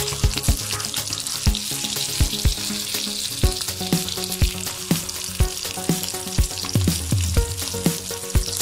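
Bone-in pork chops sizzling as they pan-fry in hot oil, a steady hiss and crackle, with repeated low thumps throughout.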